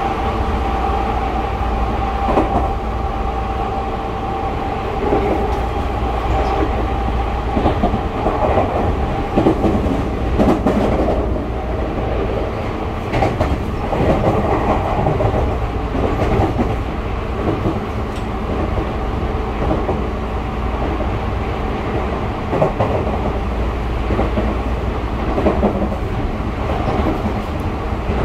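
Tokyu 5000 series electric train heard from inside the car while running: steady rumble of wheels on rail with scattered clacks over rail joints. A steady whine sounds for the first several seconds, then fades.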